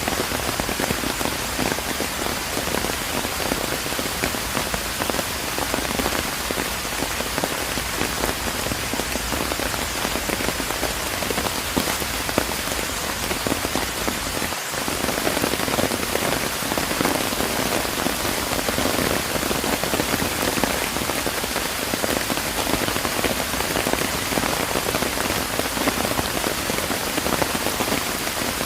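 Steady rain falling, a dense even patter of drops. It breaks off for a split second about halfway through, then carries on slightly louder.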